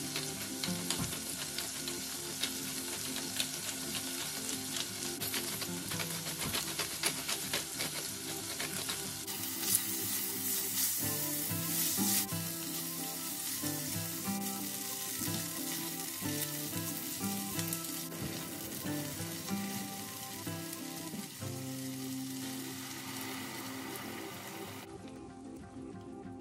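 Chicken wings, onion and ginger sizzling and crackling as they fry in an enamelled cast-iron pot, stirred with a silicone spatula, over background music. The sizzling dies down near the end.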